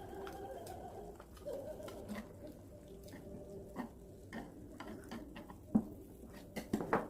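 Scattered clicks and clacks of scallop shells and utensils while eating grilled scallops, with a sharper clack about six seconds in and a quick cluster near the end, over a faint steady hum.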